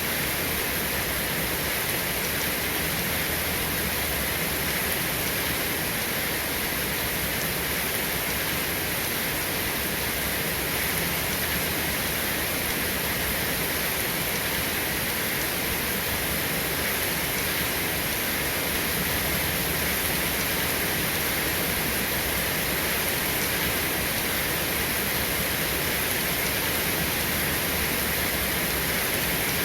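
Steady rain falling without let-up, an even wash of sound with no thunder or single drops standing out.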